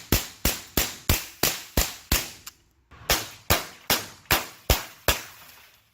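Rapid semi-automatic .22 LR gunfire, sharp cracks at about three shots a second: seven in a run, a short break a little over two seconds in, then six more.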